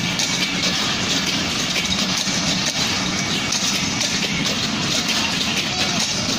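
Passenger train coaches rolling past close by: a loud, steady rumble and rush of wheels on the track.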